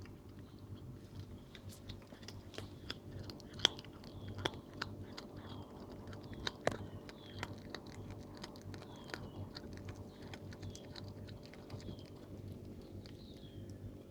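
A cat chewing and crunching a gecko, with sharp irregular crunches throughout, the loudest a few seconds in.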